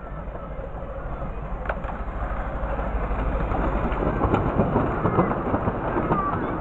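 Miniature railway train approaching, its running noise growing steadily louder.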